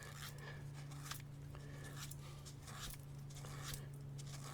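Faint, irregular scraping and rubbing strokes as rust-preventive dirt is cleaned off the door, over a steady low hum.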